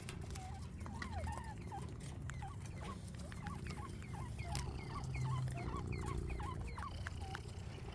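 A flock of northern bobwhite quail calling: many short chirping notes overlapping in quick succession, over a low rumble.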